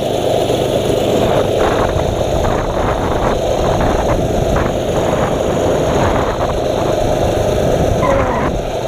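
A mini bike's small engine running steadily while riding, with wind buffeting the GoPro microphone.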